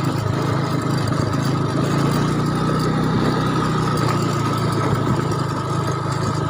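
A steady engine-like mechanical drone, running evenly throughout with no change in pitch or level.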